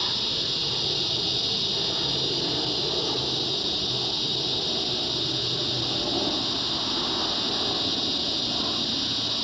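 Cicada chorus: a continuous, loud high-pitched buzz, which the recorder takes for mating-season song. Under it runs the low, steady rumble of a jet plane passing overhead.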